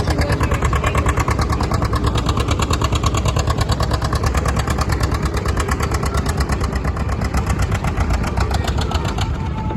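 Tractor engine running with a rapid, even firing beat.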